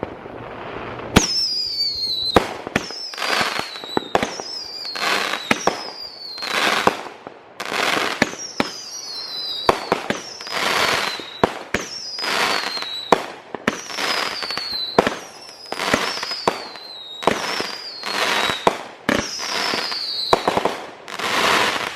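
A "Loud Cloud" consumer firework cake firing a long volley of shots, one about every second or so. Each shot has a whistle that falls in pitch, followed by a burst. The firing starts about a second in.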